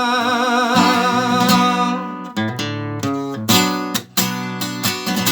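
A man's held sung note with vibrato fades out about two seconds in over an acoustic guitar; the guitar then carries on alone with strummed chords.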